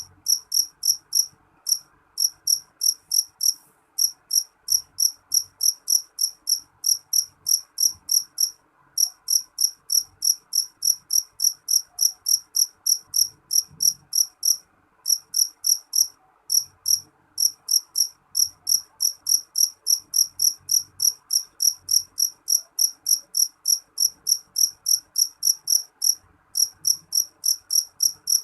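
Cricket chirping, short high-pitched chirps repeated evenly at about three a second, with a few brief pauses.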